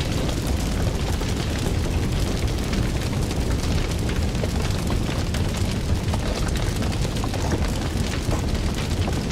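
Fire crackling: many small irregular pops and snaps over a steady low rumble of the flames.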